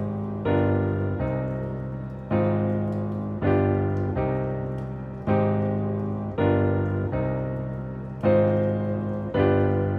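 Background piano music: slow chords struck about once a second, each one fading before the next.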